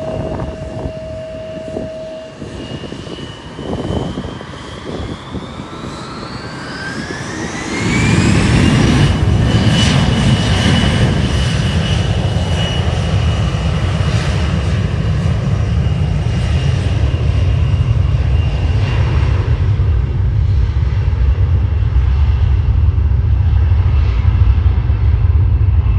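Airliner's engines spooling up to takeoff power: a whine rises in pitch over about six seconds, then a loud, steady low rumble of takeoff thrust sets in about eight seconds in and holds.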